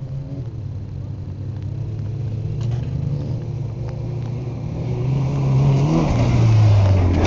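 Truck engine running steadily. It grows louder over the last two seconds, and its pitch falls slightly near the end.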